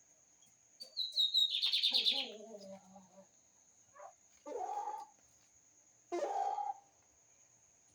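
Lined seedeater (bigodinho) singing one short, fast, high phrase about a second in, followed by lower-pitched calls. A faint steady high tone runs underneath.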